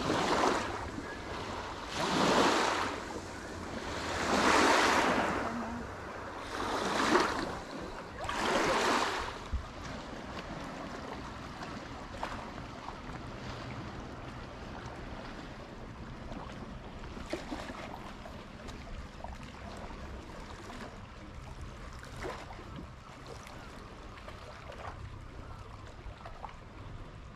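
Lake Superior waves washing onto the shore. Five loud surges come in the first nine seconds or so, then a quieter steady wash with a few faint splashes.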